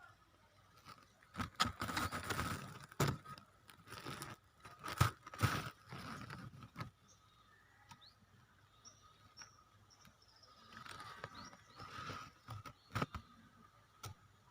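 Leaves crinkling and rustling in several bursts, with a few sharp snaps, as foliage is handled and pushed aside.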